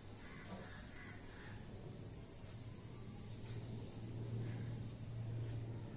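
Bird calls in a quiet room with a low steady hum: a rapid high trill of about ten short chirps about two seconds in, and faint calls in the background.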